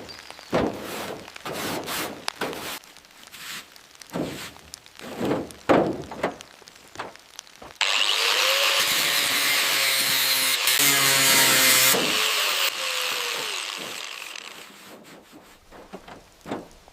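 Irregular scraping or rubbing strokes of hand work on a surface. About eight seconds in, a power tool starts and runs loudly with a steady whine for about four seconds, then winds down and fades.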